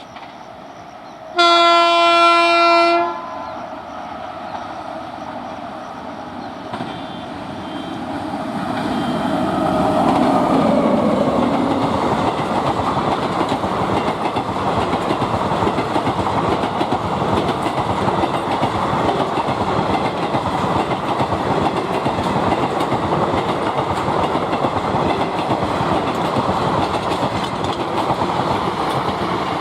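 A locomotive horn sounds one long blast, then an Indian Railways express train approaches and passes at speed. Its wheels clatter rapidly over the rail joints, loud and steady to the end.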